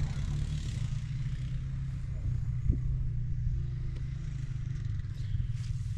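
1939 John Deere Model L's two-cylinder engine running steadily just after a crank start, a low, even rumble.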